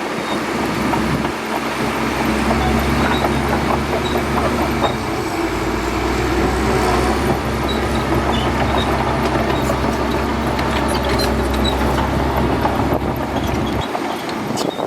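Shantui DH17C2 crawler bulldozer's diesel engine running steadily, with the clatter and rattle of its steel tracks and machinery over it. The low engine note drops away near the end.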